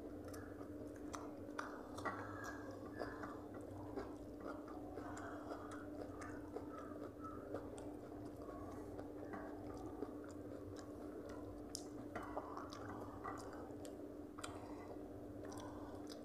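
Two people eating rice and fried side dishes by hand: chewing and small mouth and finger sounds, with scattered light clicks. A steady low hum runs underneath.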